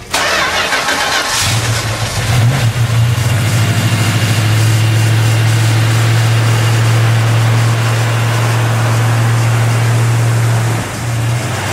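Car engine cranked by the starter for about a second and a half until it catches, blipped a couple of times, then idling steadily with a deep, even note.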